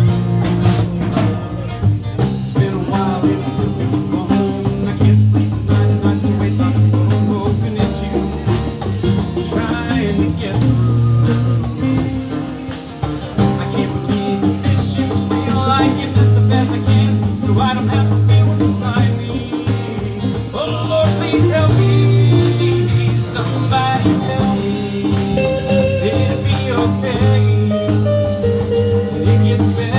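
Live blues band playing, with a bass line, electric guitar and a drum kit keeping a steady beat.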